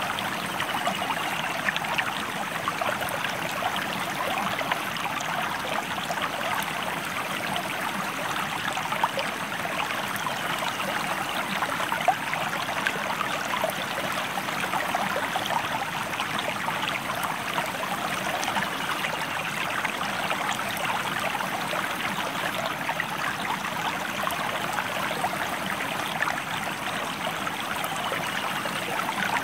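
Stream water flowing steadily, an even rushing and splashing with no pauses.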